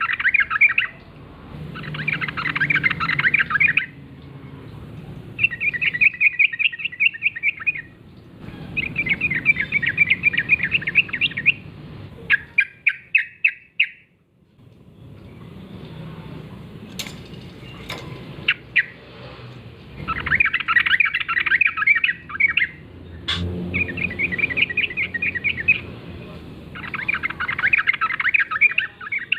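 Yellow-vented bulbuls (trucuk) singing in repeated bursts of rapid chattering notes, each burst about two seconds long with short pauses between. A few sharp clicks come about halfway through.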